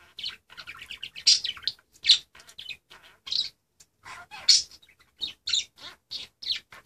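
Pet budgies chirping and chattering, a rapid run of short high-pitched calls with brief pauses.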